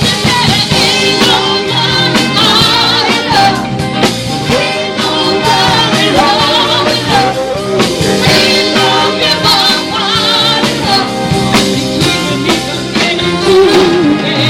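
Live band playing a rock-and-roll song with drums and a sung or lead melody line.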